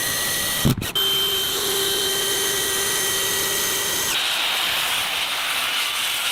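Power drill running under load, driving a long structural screw into a log. Its motor holds a steady whine for about three seconds, then turns rougher and noisier near the end.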